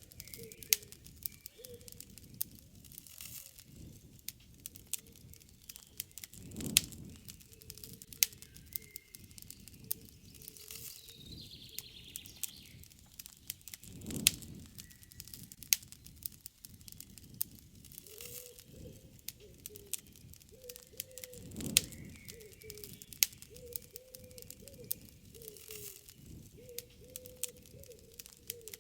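Wood campfire crackling with many sharp pops and snaps, with a soft low whoosh of the fire about every seven seconds. Birds call in the background.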